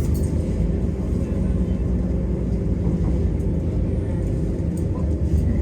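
Inside a Class 172 diesel multiple unit on the move: a steady low rumble of the underfloor diesel engine and the wheels on the rails, with a constant low hum.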